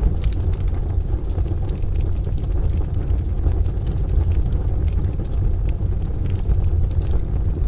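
Wood fire crackling with scattered sharp pops, over a steady deep rumble of rain and distant thunder.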